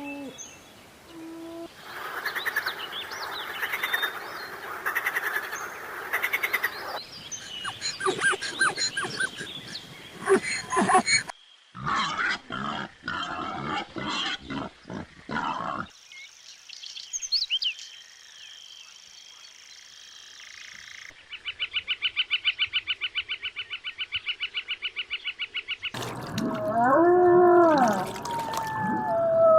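A string of different animal calls cut one after another, each clip a few seconds long. The middle holds a fast, evenly pulsed trill, and a pitched call that rises and falls comes in near the end.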